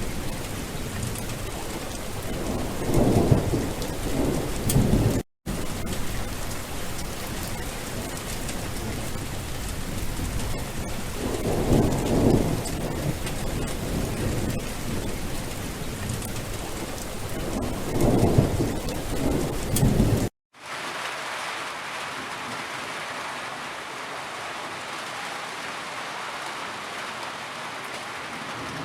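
Rain falling steadily, with rolls of thunder swelling up three times. The sound cuts out briefly twice; after the second cut the rain goes on as a thinner, steady hiss without thunder.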